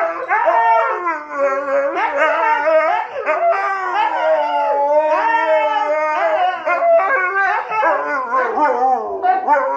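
A dog howling and whining back in a long, wavering "talking" vocalisation, its pitch sliding up and down with only brief breaks, the sound of a dog protesting after being scolded.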